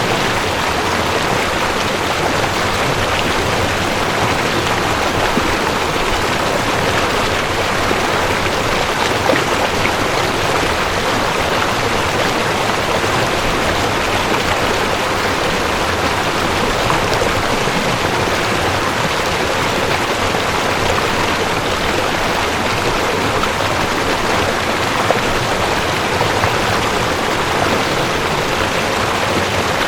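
Mountain stream rushing over rocks: a steady, even rush of water with no let-up.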